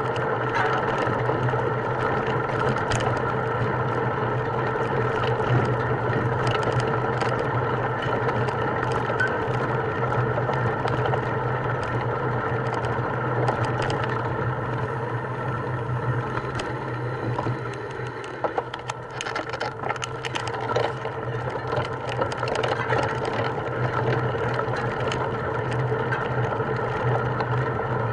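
A motor running steadily, with a constant low hum and many small rattles and clicks over it; it drops a little in level for a moment after about eighteen seconds.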